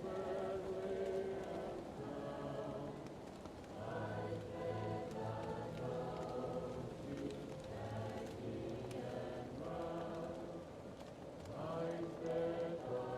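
Choir singing slow, sustained chords that swell and fade every few seconds, muffled as if heard from another room, over the faint crackle of a wood fire.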